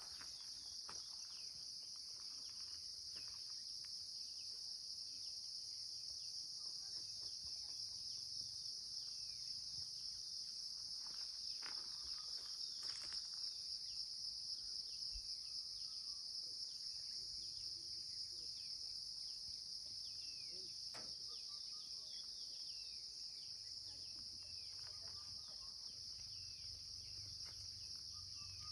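A steady, high-pitched insect chorus, with short faint bird chirps scattered through it.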